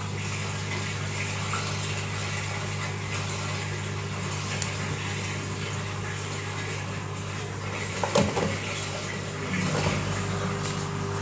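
Washing machine running a wash cycle: a steady motor hum with water moving in the drum, and a brief clunk about eight seconds in.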